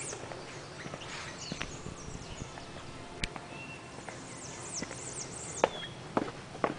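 Birds singing: bursts of quick, high downward-slurred notes. A sharp click about three seconds in and a few louder clicks or knocks near the end.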